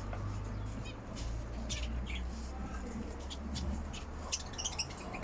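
Young canaries chirping in short, scattered high calls, with a quicker run of chirps near the end, over a steady low hum.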